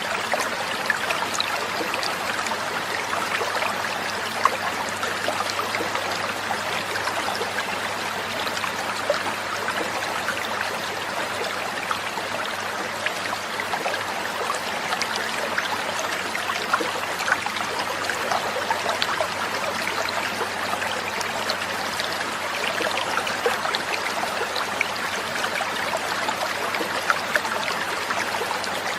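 Water trickling and babbling steadily over stones, a small stream without birdsong.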